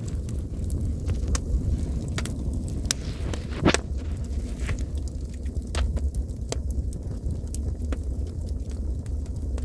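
Campfire burning, with scattered crackles and sharp pops, one louder snap a little under four seconds in, over a steady low rumble.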